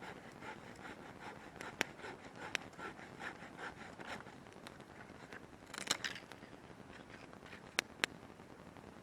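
Wood campfire crackling, with several sharp pops, two of them in quick succession near the end.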